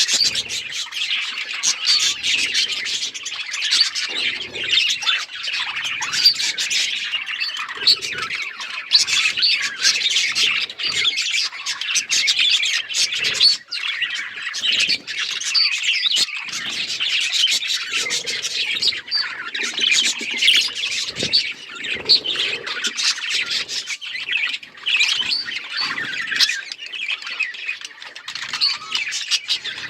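A flock of budgerigars chirping and chattering without a break, many birds calling over one another in short, rapid calls.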